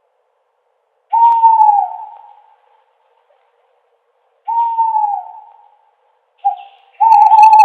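Owl hooting: a series of single hoots about a second or so long, each sagging in pitch at its end, with silence between; a short hoot comes just before the last, longer one near the end.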